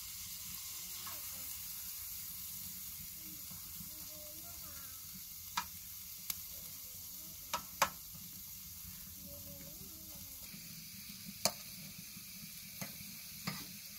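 Food sizzling in hot oil in a wide, shallow pan over a wood fire, a steady hiss. A metal spoon stirs it, clinking sharply against the pan about seven times in the second half.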